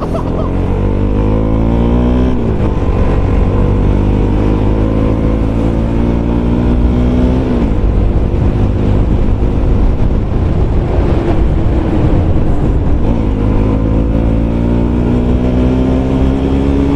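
Motorcycle engine running while riding. Its pitch climbs steadily and then drops sharply at each gear change, about every five seconds.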